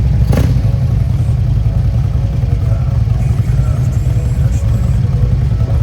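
Harley-Davidson V-twin motorcycle engine running steadily at low revs with a deep, choppy low exhaust note. A brief sharp sound comes about a third of a second in.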